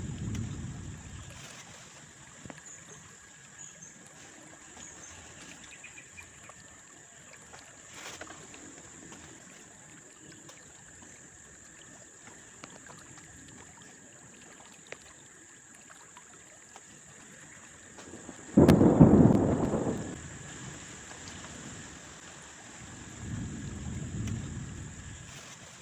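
Thunder over steady rain: a low rumble at the start, then a sudden loud thunderclap about two-thirds of the way through that rolls off over a second or two. A softer rumble follows near the end.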